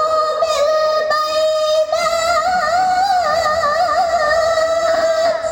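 Melodic Quran recitation (tilawah): one voice draws out a long ornamented note on the word "jā'ū", wavering in pitch. There is a brief catch about two seconds in, and the note fades near the end.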